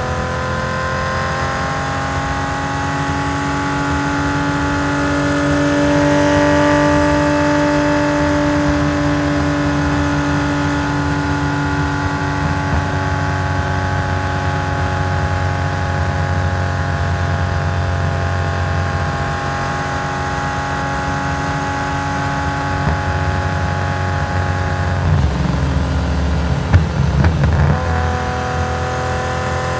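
Race-tuned Nissan S20 2.0-litre twin-cam straight-six in a Hakosuka Skyline GT-R, running at steady moderate revs through its custom stainless exhaust. Its pitch drifts only slightly. About 25 seconds in, the steady note breaks into a brief patch of irregular cracks and pops, and then the engine settles back to a steady note.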